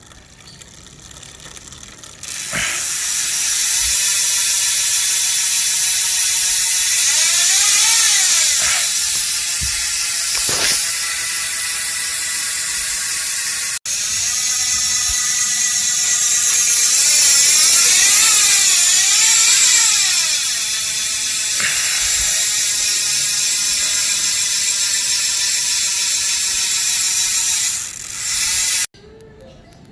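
Loud ratchet freehub on a Thrill Fervent Elite T140 bicycle buzzing as the rear wheel freewheels, its clicks so fast they run together into a high buzz whose pitch wavers up and down. It starts about two seconds in, breaks for an instant near the middle, and stops abruptly near the end.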